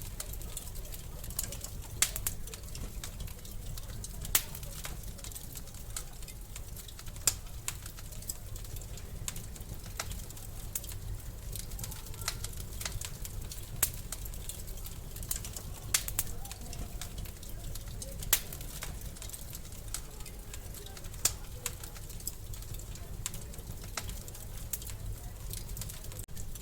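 Wood fire in a fireplace crackling: frequent small snaps and a louder pop every two to three seconds over a steady low rumble.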